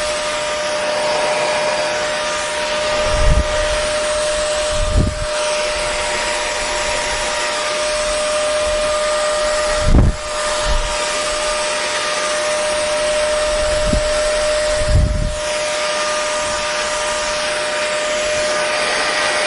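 Hair dryer running steadily: an even blowing hiss with a constant motor whine. A handful of dull low thumps break through, two close together about 5 seconds in and the strongest about halfway through.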